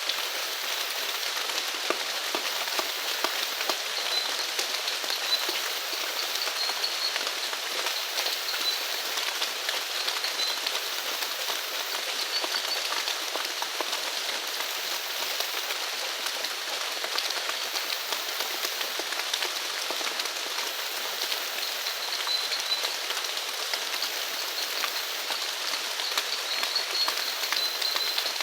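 Steady rain falling, a dense even patter of many small drops. Faint, short high-pitched chirps come and go every few seconds.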